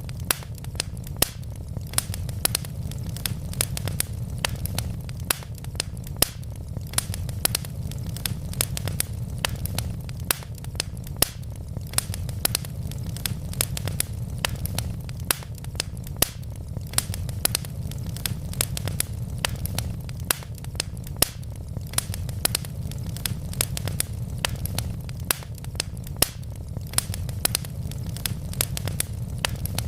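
Wood fire burning in a fireplace: a steady low rumble of flames with sharp crackles and pops from the logs several times a second.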